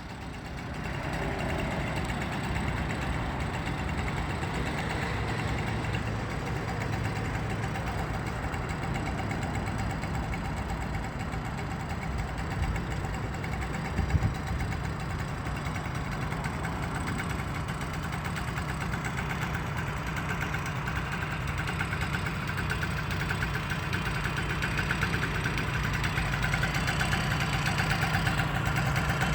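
Small petrol engine of a motorized bicycle running steadily at idle, with one short knock about fourteen seconds in. It grows slightly louder near the end.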